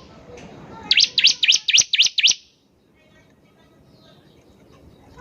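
Bar-winged prinia (ciblek) singing: one quick run of about eight sharp, rising chirps about a second in, lasting just over a second.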